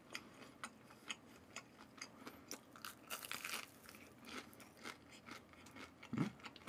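Close-miked chewing of a fried cheese ball: faint, crisp crunches and wet mouth clicks, many small ones in quick succession.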